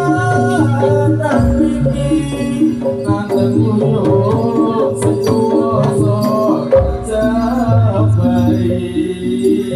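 Javanese folk dance music played live: hand drums and a rattle keeping a steady beat under an electronic organ melody and bass line.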